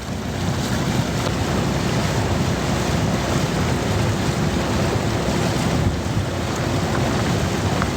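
Steady rush of wind on the microphone and water noise from a moving motorized bamboo raft, with a faint steady motor hum underneath.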